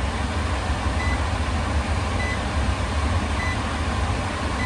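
Steady low machine hum, with a short high-pitched beep repeating about every second and a bit.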